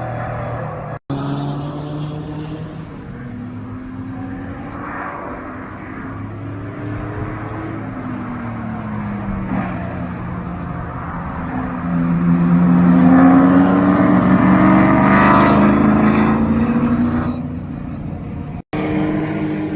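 Race car engine running hard, its pitch rising and falling with throttle and gear changes and loudest from about twelve to seventeen seconds in. The sound cuts out for an instant about a second in and again near the end.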